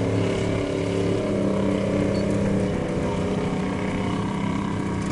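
Truck engine running steadily under load, its hum stepping slightly in pitch about a second in.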